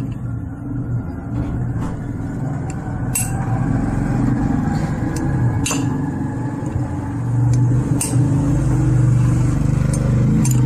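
Sharp metal clinks, one every two to three seconds, as a key or wrench on the fan motor shaft is struck and turned to work a worn bearing off. Under them runs a steady low rumble that grows louder after about seven seconds.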